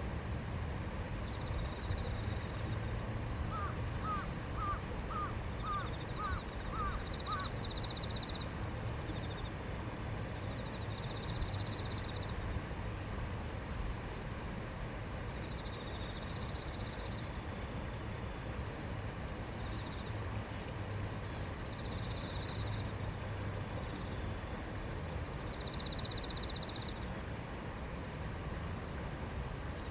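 River water flowing steadily, a babbling stream. From about four to seven seconds in a bird calls about seven times in quick succession, and short high buzzing trills recur every few seconds.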